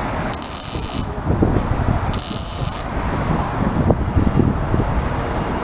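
Two short hissing bursts, each under a second and about a second and a half apart, over a steady low rumble.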